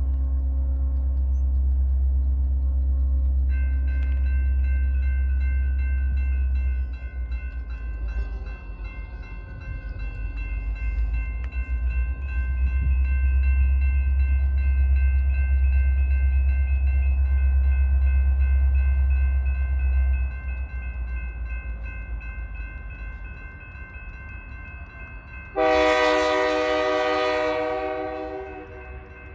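Diesel freight train passing with a heavy low rumble, and a steady high-pitched whine joining in a few seconds in. Near the end a locomotive air horn sounds one loud chord for about three seconds.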